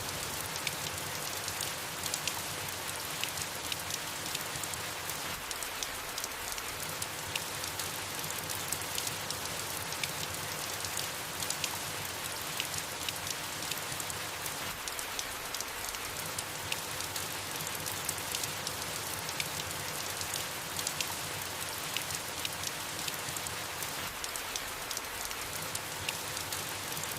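Steady soft rain falling on leaves: an even hiss dotted with many small, sharp drop ticks.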